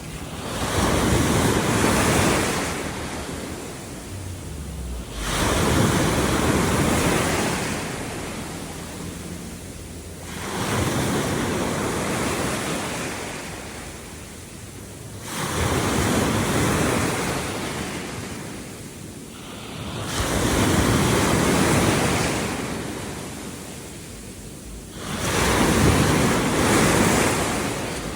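Sea waves washing in one after another: six surges about five seconds apart, each rising quickly and then slowly fading.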